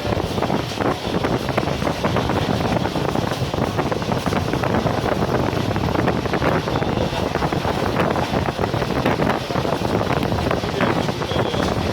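Train running at speed on the rails: a steady rumble with dense, fine clatter of wheels on track, and wind buffeting the microphone.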